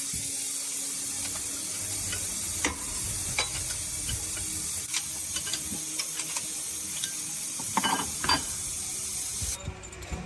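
A steady hiss that starts suddenly and cuts off shortly before the end, with scattered clicks and knocks over it.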